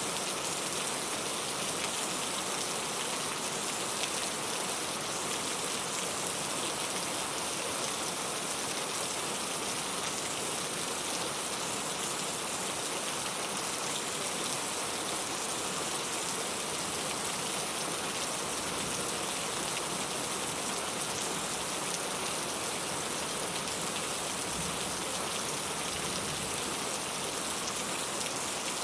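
Steady rain falling, an even hiss of many drops without pauses or changes.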